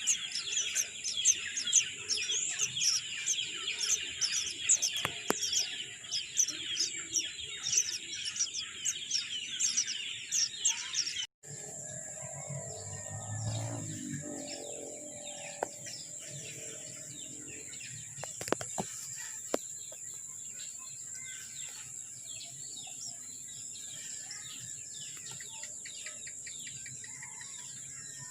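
Many small birds chirping rapidly, high-pitched and overlapping, for about the first eleven seconds; then the sound cuts out briefly and gives way to a steady high-pitched drone with a low rumble and a few faint ticks.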